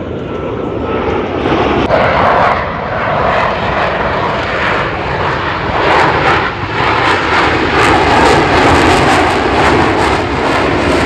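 Blue Angels F/A-18 Super Hornet jets flying past with a loud jet roar. It swells over the first two seconds and stays loud, growing more ragged in the second half.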